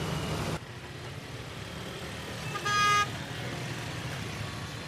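A vehicle horn sounds once, briefly, a little past the middle, over a steady hum of street and traffic noise.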